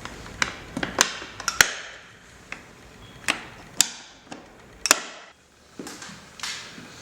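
A series of sharp, irregular clicks and knocks, about a dozen over several seconds, each ringing briefly. A low background hum stops about one and a half seconds in.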